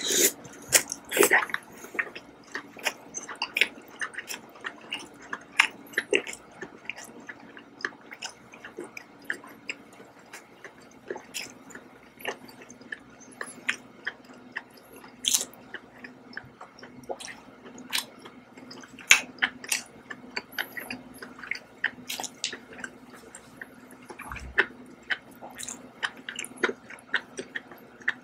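Close-miked wet chewing and lip smacking of a person eating seared scallops in herb oyster sauce, with the loudest moist bite sounds in the first couple of seconds as a scallop goes into the mouth.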